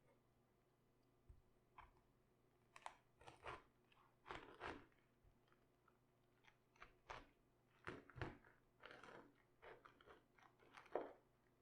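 Raw cabbage crunching in quiet, irregular bursts as it is handled during sauerkraut preparation, some crunches short and sharp, others longer and crackling.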